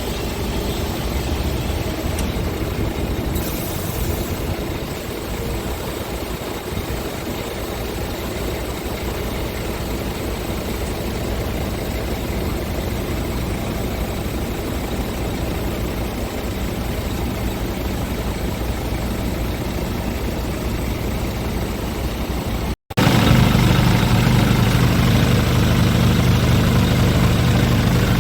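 Scania R450 tractor unit's 13-litre six-cylinder diesel engine idling steadily. After an abrupt cut near the end it is heard louder and closer, with a deeper, stronger hum.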